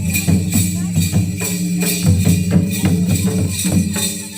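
Traditional Ho Munda dance music: percussion beating a steady rhythm of about three to four strokes a second, with bright jingling highs over a sustained low tone.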